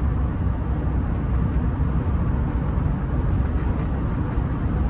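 Steady low rumble of road and engine noise inside the cabin of a Rolls-Royce Silver Spirit III on the move.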